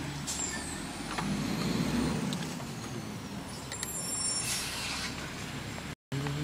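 Garbage truck's diesel engine running at a low steady idle, with a short burst of air hiss from the air brakes about four and a half seconds in.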